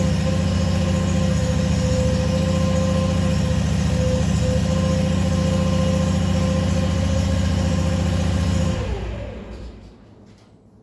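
Ventrac tractor engine running steadily, then switched off about nine seconds in, running down and stopping.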